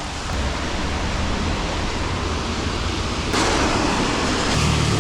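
Heavy rain falling, a steady hiss that grows louder and brighter about three seconds in.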